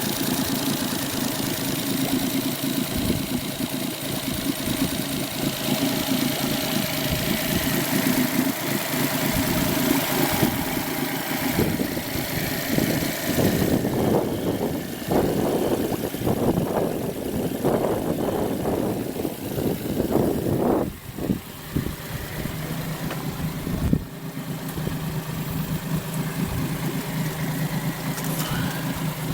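Suzuki-built Johnson 40 hp four-stroke EFI outboard running, steady at first. About halfway through its speed changes and the running turns uneven for several seconds. It then settles to a steady, lower-pitched idle, with one sharp knock along the way.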